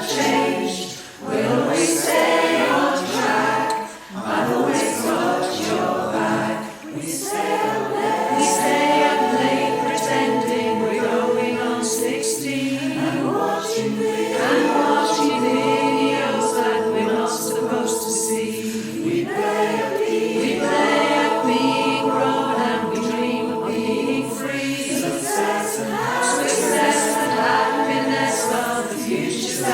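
Community choir singing a cappella in several-part harmony, with held chords and short pauses between phrases.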